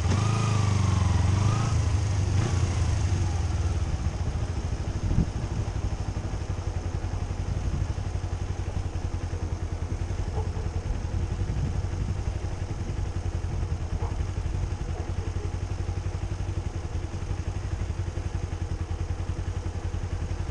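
A vehicle engine idling steadily, louder in the first two seconds, with a single short knock about five seconds in.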